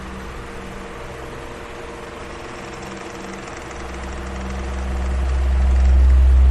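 Electric fan running with a steady motor hum and airy hiss. Its deep low rumble fades for the first few seconds, then swells back up to full strength near the end.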